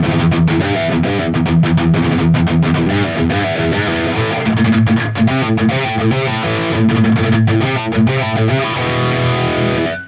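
High-gain distorted electric guitar playing a chugging rhythm riff through a digital amp modeler, with tight palm-muted stabs. It stops abruptly at the end.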